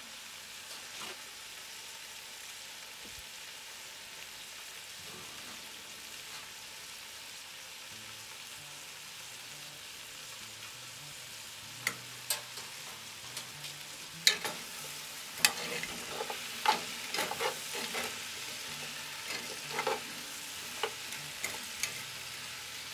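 Chopped vegetables sizzling as they brown in a cast-iron Dutch oven, a steady frying hiss. From about twelve seconds in, metal tongs stir them, with sharp clacks and scrapes against the pot.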